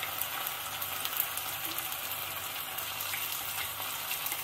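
Onions, green capsicum and chopped tomatoes sizzling steadily in hot ghee in a pan, with a faint light crackle.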